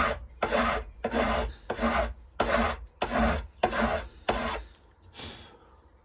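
Steady back-and-forth abrasive hand strokes, like filing, on knife handle material, evening it up; about ten rasping strokes at a steady pace, the last one weaker about five seconds in before the work stops.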